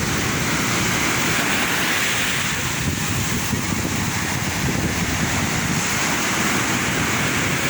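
Sea surf: waves washing in as a continuous rushing noise that swells slightly about two seconds in.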